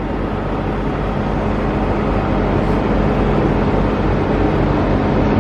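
Steady drone of idling diesel semi-trucks, an even rumble with a constant low hum.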